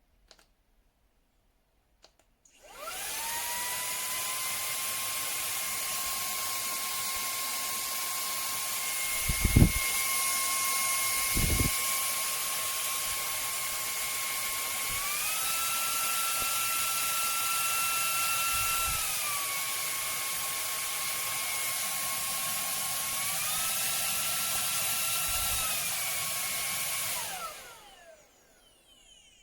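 Cordless handheld vacuum cleaner switching on, its motor spinning up to a high steady whine over a rush of air. The whine steps up in pitch twice for a few seconds and drops back each time, then the motor cuts off and winds down near the end. Two dull knocks sound a little before halfway.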